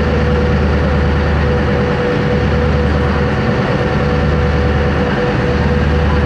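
Boat engine running steadily: a constant low drone with a thin steady whine above it.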